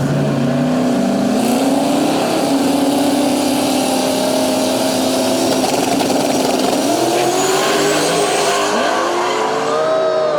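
Drag-racing engines at full throttle. The engine pitch climbs in steps through the gear changes over the first couple of seconds, then holds one high steady note down the strip. Near the end several engine notes slide up and down as the vehicles come off the throttle.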